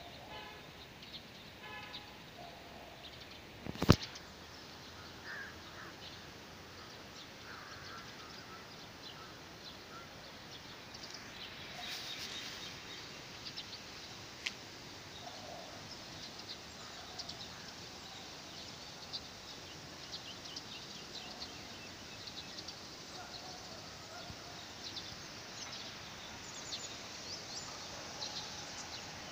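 Faint outdoor ambience with small birds chirping, the chirps coming thicker in the second half. A single sharp click sounds about four seconds in.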